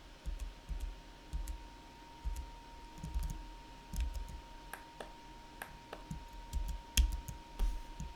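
Computer mouse and keyboard clicking at irregular intervals, with soft low knocks and a faint steady tone underneath.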